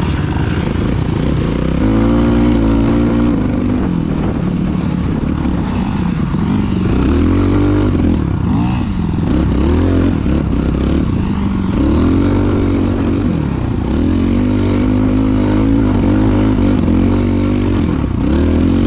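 Dirt bike engine running hard, its pitch rising and falling again and again as it revs up and eases off.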